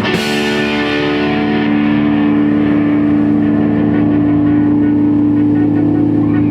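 Distorted electric guitar chord struck once and left to ring out, held steady without fading.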